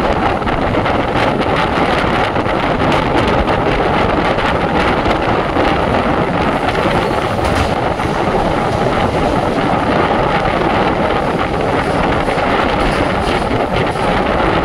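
Express train running at speed, heard from its open doorway: a steady rush of wheels on rails and air, with wind buffeting the microphone.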